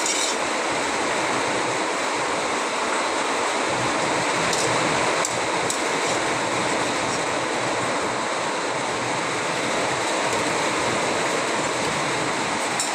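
Heavy rain falling steadily, an even hiss with a few faint ticks.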